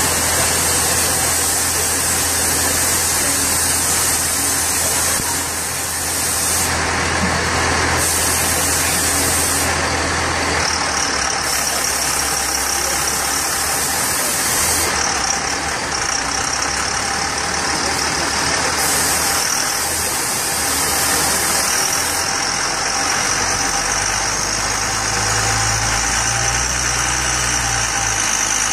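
A rat-rod hot rod's engine running steadily on a chassis dyno, loud and even with no big revs; a high steady whine joins about ten seconds in.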